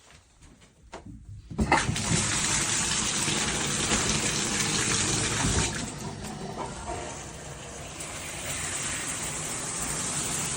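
A few faint knocks, then about a second and a half in a shower head is turned on and water sprays in a steady hiss, easing a little after about six seconds.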